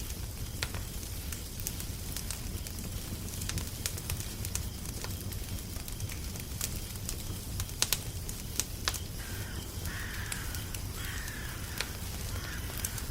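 Wood fire crackling: scattered sharp pops and snaps over a steady low rumble, with a quick cluster of louder pops about two-thirds of the way through. Near the end a crow caws faintly a few times.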